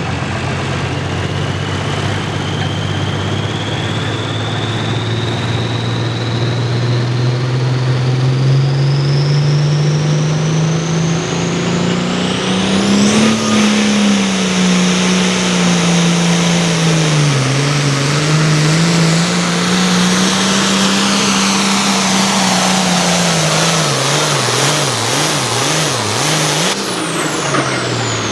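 Turbocharged 466-cubic-inch diesel of an International Harvester hot farm pulling tractor running flat out under load down the pull track. The engine note climbs for about half the run while a turbo whistle rises with it. The revs then swing up and down, bouncing quickly near the end, before the engine falls off and the turbo whistle winds down.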